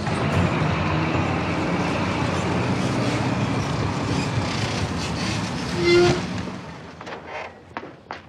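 A 1940s-style sedan's engine running as the car drives up and comes to a stop. A short sharp note sounds about six seconds in, then the engine noise falls away, with a few light clicks near the end.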